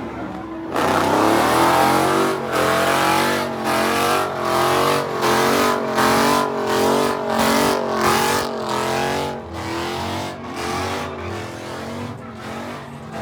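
A car sliding through a drift or donut, its engine revving up and down in quick repeated throttle pulses, about one and a half a second, over tyre squeal.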